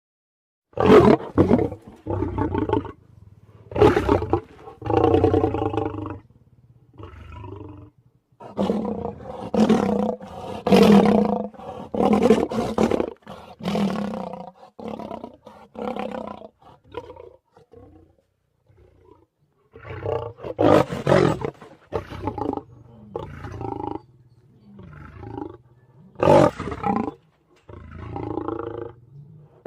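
A string of lion roars and growls used as sound effects, about twenty separate calls of around a second each with short gaps between them and two longer pauses.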